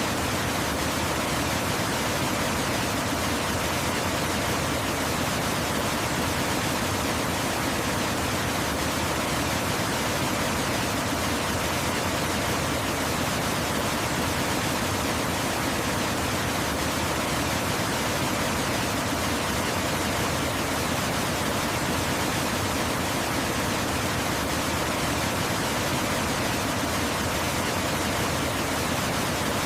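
Waterfall rushing steadily: an even, unbroken hiss of falling water spread from low to high pitch.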